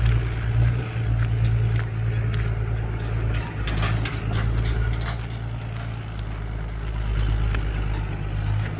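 Truck engine running with a steady low drone, with scattered light clicks and knocks over it.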